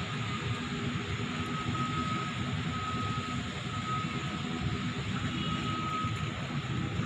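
Steady mechanical rumble of the slipway haulage as a ship is winched up the rails on a wire cable, with a faint thin whine that comes and goes.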